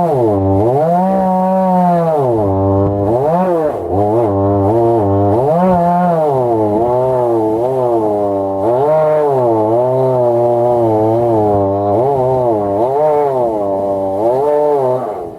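Two-stroke chainsaw milling a log, its engine speed rising and falling over and over as the cut loads and eases. The engine sound drops away sharply at the very end.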